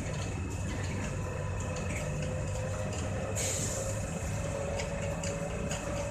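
Electric train heard from inside the carriage while running: a steady low rumble with a faint whine that rises slightly in pitch in the second half, scattered light clicks, and a short hiss about three and a half seconds in.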